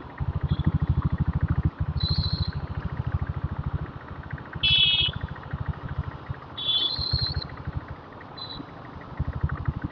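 Diesel Bullet motorcycle's single-cylinder engine running under way with a rapid, even knocking beat that eases off briefly twice. Several short high-pitched toots sound over it, the loudest about five seconds in.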